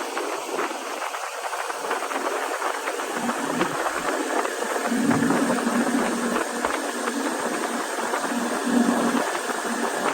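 A motor running under a steady rushing hiss, its low hum coming in about halfway through.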